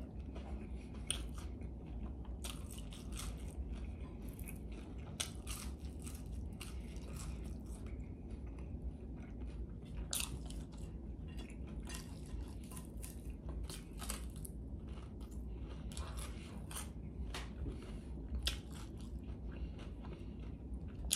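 Close-miked chewing and biting of fast food, with many short crisp crunching clicks scattered throughout, over a steady low hum.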